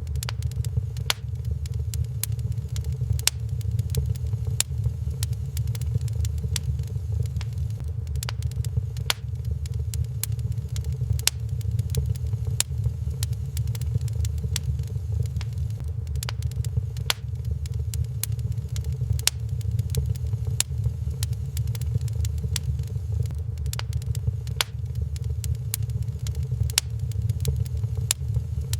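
Wood fire burning in a fireplace, crackling with frequent sharp pops and snaps at irregular intervals over a steady low rumble.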